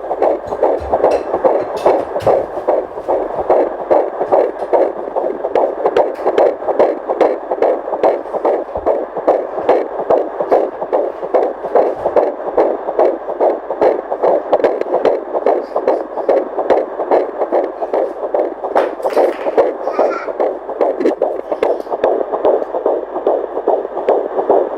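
A heart beating fast, about 150 beats a minute: a steady, even, rapid pulsing throb.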